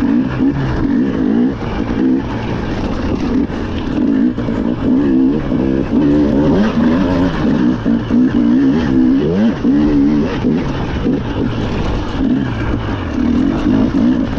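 Rally car engine running hard on a special stage, its pitch rising and falling again and again as the car accelerates, shifts gear and slows for corners.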